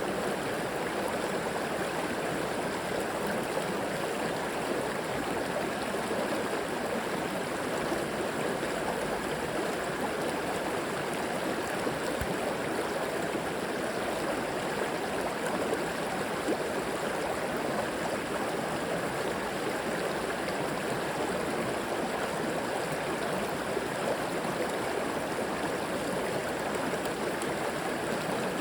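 Flowing river water rushing and gurgling over rocks in a steady, unbroken wash.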